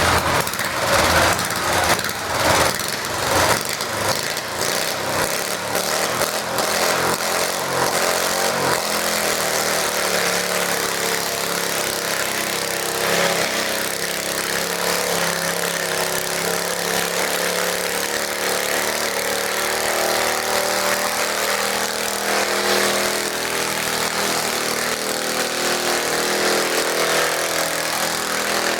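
Garden tractor engine running, uneven and pulsing for the first several seconds, then settling into a steady run.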